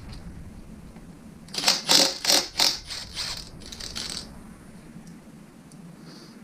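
Hand ratchet wrench clicking in quick strokes for about three seconds, loosening a connecting-rod cap nut to pull a piston from a small-block Chevy V8.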